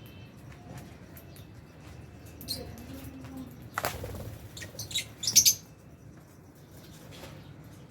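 Aviary lovebirds giving short, sharp, high chirps, loudest in a quick cluster about five seconds in, with a single sharp click a little before.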